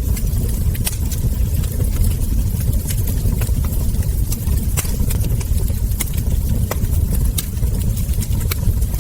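Wood fire crackling: irregular sharp pops and snaps from burning logs and embers over a steady low rumble.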